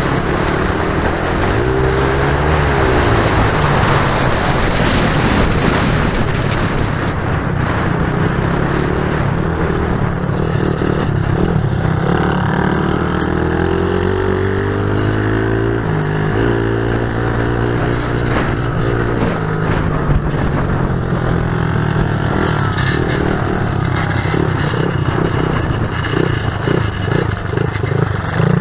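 Pit bike engines revving up and dropping back again and again as the bikes are ridden, with more than one engine heard at times.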